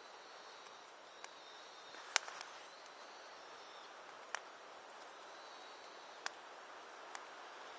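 Wood campfire burning, a steady soft hiss broken by irregular sharp crackles and pops, the loudest a little after two seconds in.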